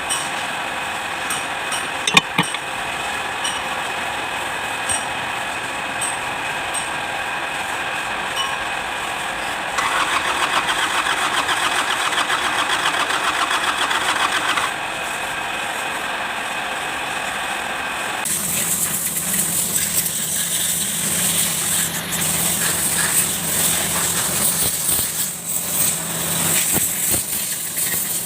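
Kubota D905 three-cylinder diesel engine sounds, steady at first, with a louder stretch of about five seconds near the middle and a noisier change in sound about two-thirds of the way through.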